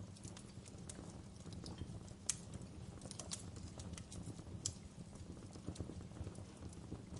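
Wood fire crackling in a fireplace: irregular sharp pops and snaps from the burning logs over a steady low rumble of the flames, with one louder pop about two seconds in.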